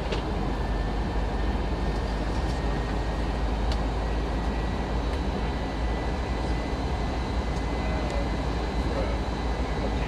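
Steady cabin drone of a Lufthansa Airbus A319 in flight, as heard from inside the cabin: engine and airflow noise with a faint steady whine over it, during the descent toward landing.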